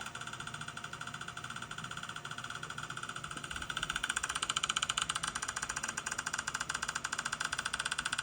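Steady electric buzz of a small motor or device, with a fast even pulse, growing louder about four seconds in.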